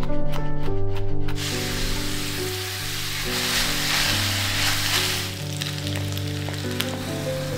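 Knife chopping garlic on a plastic cutting board, a quick run of knocks for about the first second and a half. Then ground beef, onion and carrot sizzling in a cast-iron skillet as a wooden spatula stirs them, a steady frying hiss to the end.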